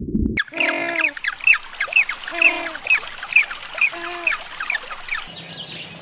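Birds calling: a run of short high chirps, about two a second, with a lower call three times among them, starting about half a second in and stopping about five seconds in. A low rumble fills the first half-second.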